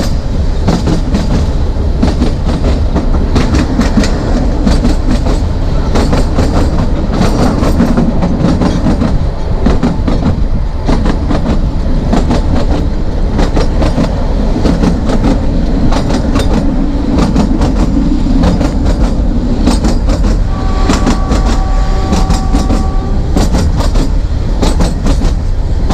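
Narrow-gauge train under way: steady rumble of the wheels with rapid clicking over the rail joints. About twenty seconds in, a steady two-note tone sounds over it for a couple of seconds.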